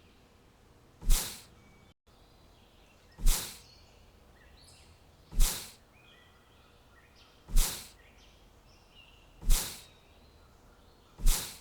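Faint bird chirps, with a loud sudden burst of noise repeating about every two seconds, six times, each dying away in about half a second.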